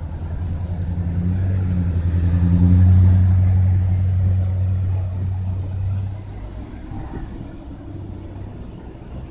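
A motor vehicle passing on the road, its low engine rumble swelling to a peak about three seconds in and fading away by about six seconds.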